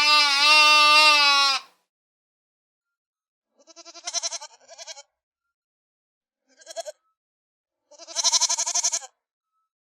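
Bleating: a long steady bleat that ends just under two seconds in, followed by three shorter quavering bleats with silence between them, the last the longest.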